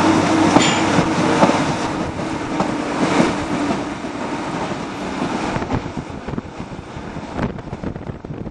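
Train passing on the line and moving away: wheels clacking over the rails with a steady hum, fading during the second half. Wind buffets the microphone throughout.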